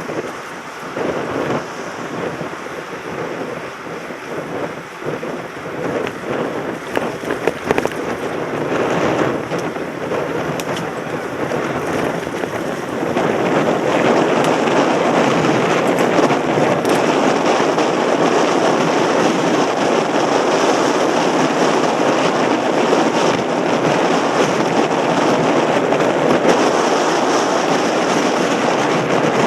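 Wind rushing over a helmet camera's microphone, with the rumble and rattle of a mountain bike riding over rough ground. There are irregular knocks at first, then a steadier, louder rush from a little before halfway.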